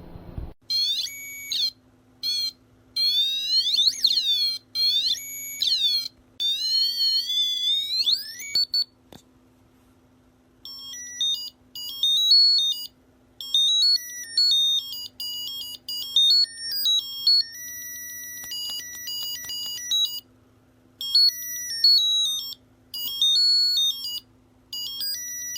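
Small electronic theremin sounding through its speaker: high warbling tones that glide up and down in short bursts, then, from about ten seconds in, quick beeps jumping between pitches like an alarm or ringtone.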